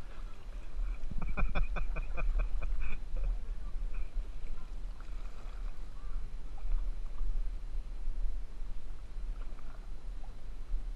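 Kayak paddling with water splashing around the hull, over a steady low rumble. About a second in there is a quick run of about ten sharp ticks lasting under two seconds.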